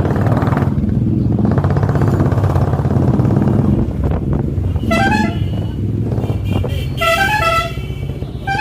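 Motorcycle engine running steadily on the move, with a vehicle horn sounding short pitched toots about halfway through and again near the end.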